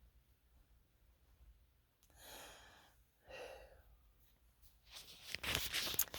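A person breathing out twice, soft sighing exhales about two and three seconds in, then about a second of rustling and clicking near the end, the loudest part.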